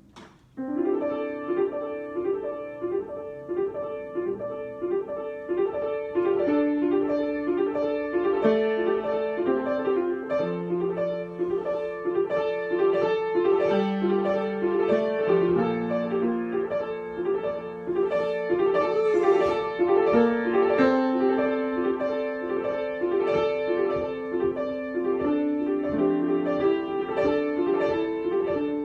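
Piano being improvised: a quick repeating figure of notes over slowly moving, held low notes, starting about half a second in.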